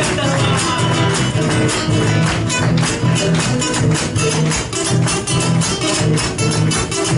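Instrumental folk music: strummed and plucked guitars with a steady, even rhythm.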